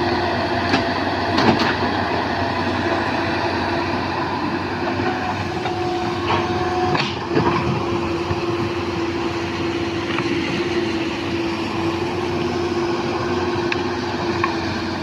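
Hydraulic excavator running steadily under load, a steady whine over the diesel engine, with a few sharp metal clanks about one and a half seconds and seven seconds in.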